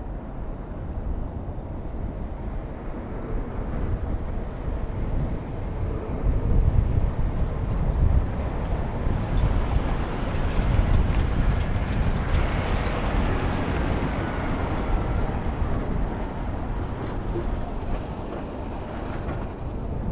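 Kenworth T680 semi truck driving past: a steady rumble of engine and tyres that builds, is loudest a little before the middle, and then slowly fades as it moves away, with a faint falling whine as it goes by.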